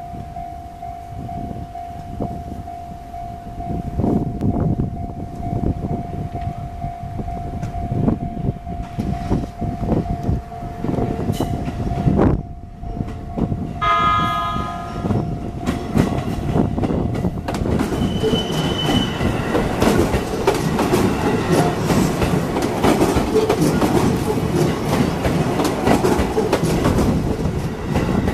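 JR East E233-series electric train pulling away and passing close by, sounding its horn once in a short blast about a third of the way in. Its rumble and the clickety-clack of the wheels over rail joints grow louder as the cars go by. A steady tone is heard until about twelve seconds in.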